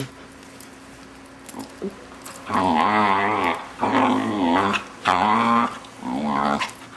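Six-month-old Vizsla puppy making weird vocal noises: four drawn-out, wavering growl-moans in a row, starting about two and a half seconds in.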